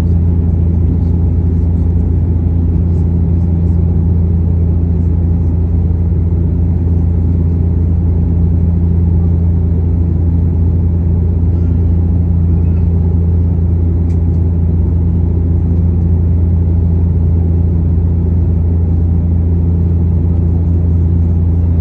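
Steady low drone of a passenger plane heard from inside the cabin, unchanging throughout.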